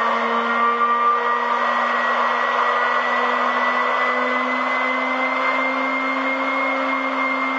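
1 hp Series 503B high-speed lab mixer's motor running near its top speed of about 16,000 RPM, a steady loud whine that creeps slowly up in pitch as the speed is raised.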